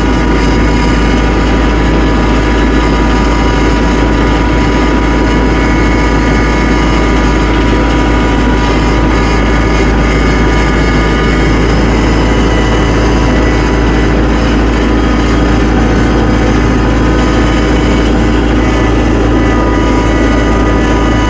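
Tractor engine running at a steady speed as the tractor drives, with a constant pitched hum and a heavy low rumble.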